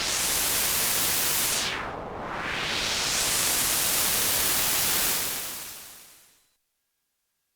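Behringer JT-4000M synthesizer preset made of white noise through a filter, a hiss whose brightness sweeps down and back up once about two seconds in. It fades out over about a second and a half near the end.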